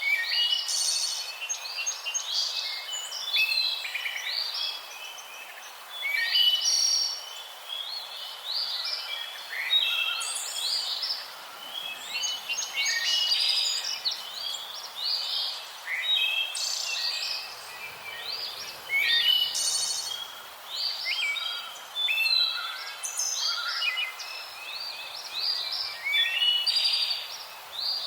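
Several small birds chirping and singing at once, a dense run of short overlapping calls and trills, over a steady background hiss.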